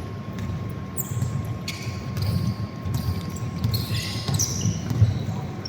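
Basketball being dribbled on an indoor court: repeated thumps of the ball, the loudest about five seconds in, with short high squeaks of sneakers on the floor.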